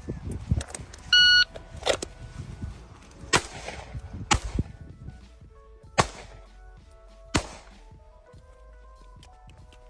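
A shot timer beeps once, about a second in, and a pistol then fires about five single shots at uneven gaps of a second or more, as in shooting while moving. Faint background music plays underneath.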